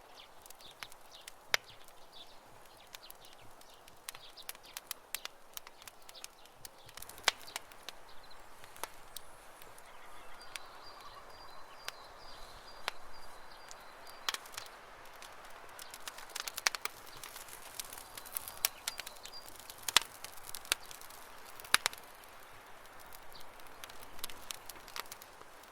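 Campfire crackling, with irregular sharp pops over a soft hiss, a few of them much louder than the rest. A bird calls faintly with a thin, high note around the middle.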